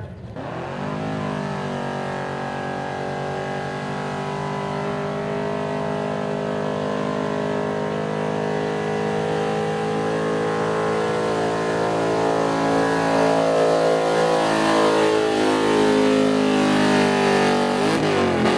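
Pulling truck's engine held at high revs under heavy load through a long pull, growing louder as it comes nearer, then dropping in pitch near the end as the throttle comes off.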